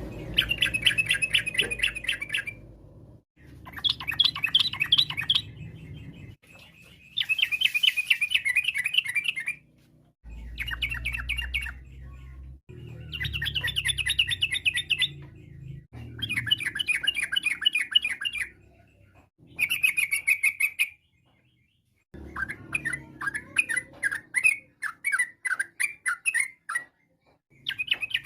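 Yellow-vented bulbul (trucukan) singing: repeated two- to three-second phrases of rapid, bubbling chattering notes, with short pauses between them.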